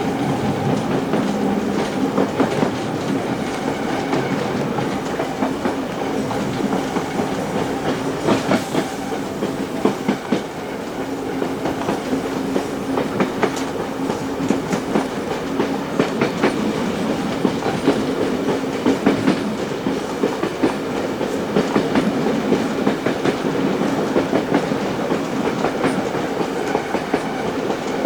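Steam-hauled heritage passenger train running along the line: a steady rumble of the carriages with the clickety-clack of wheels over the rails throughout.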